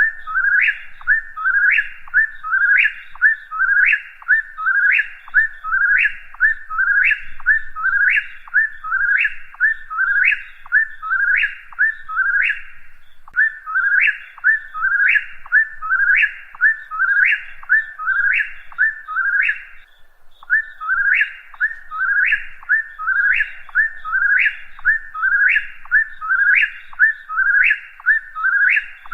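Whip-poor-will singing its whistled 'whip-poor-will' song over and over, about three phrases every two seconds, with two brief pauses, one about halfway through and one about two-thirds through.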